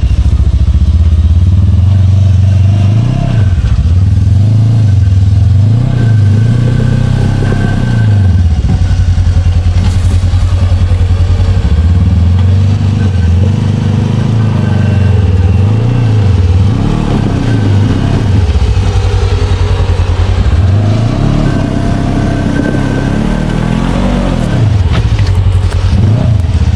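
Side-by-side UTV engine revving up and down in repeated surges, working to climb a steep obstacle.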